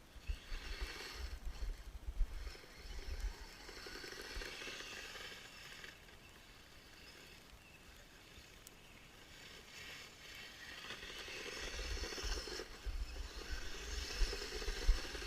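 Kyosho Blizzard radio-controlled snowcat's electric motor and gearbox whining as it drives on its tracks. The whine swells at the start, fades in the middle and builds again towards the end, with low rumbles in the louder stretches.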